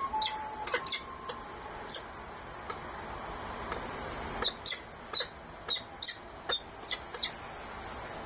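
Nestling birds giving short, high chirps: a few scattered ones, then a quick run of about eight in the second half.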